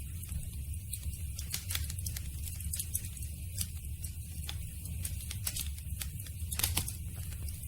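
Campfire of burning wood crackling, with irregular sharp pops over a steady low rumble of the flames, and a quick run of louder pops near the end.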